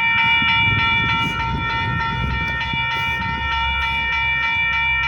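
Railroad crossing bell ringing continuously with rapid, evenly spaced strikes, over the low rumble of the train.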